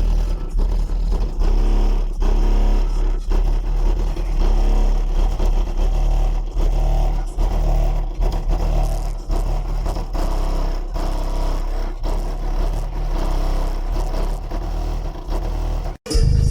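Bass-heavy music played loud through an RE Audio MT 15-inch subwoofer, a deep pounding bass line with a steady beat. The sound drops out for an instant near the end.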